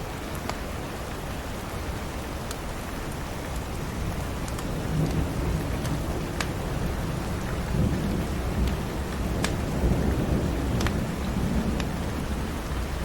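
Steady rain with a low rumble of thunder that builds about four seconds in and fades away near the end. Scattered sharp pops and crackles of a wood fire in a fireplace sound over the rain.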